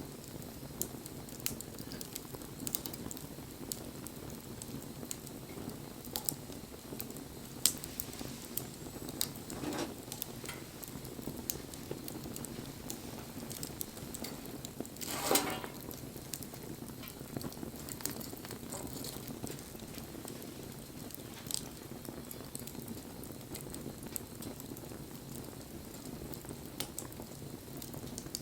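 Wood campfire burning: a steady low rush of flames with scattered sharp crackles and pops, and one louder burst about halfway through.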